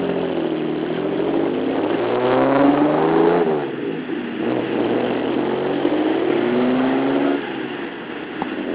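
Classic car engine with a loud aftermarket exhaust revving hard twice, its pitch climbing, then dropping off about three and a half seconds in and again about seven seconds in.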